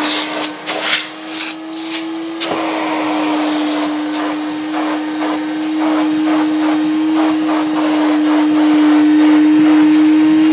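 1968 Progress Super 90 vacuum cleaner running with a steady motor whine and the rush of suction air. The pitch creeps up slightly and then drops back about two and a half seconds in, and the sound is steadier after that. The owner calls the motor bearings tired with age.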